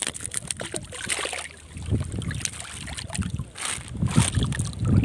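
Strong wind buffeting the microphone in uneven gusts, with scattered light clicks and rustles.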